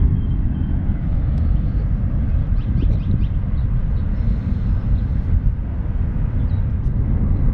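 Wind buffeting the microphone: a steady, uneven low rumble, with a few faint ticks about three seconds in.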